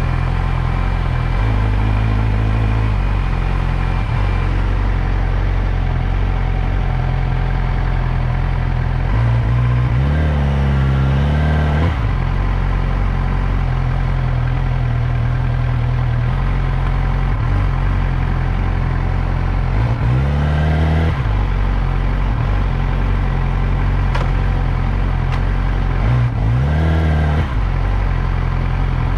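Motorcycle engine running under way, a steady low drone with three brief rises and falls in revs, about ten seconds in, about twenty seconds in and near the end.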